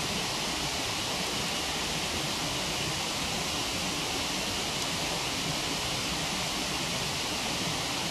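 Waterfall rushing with a steady, even hiss.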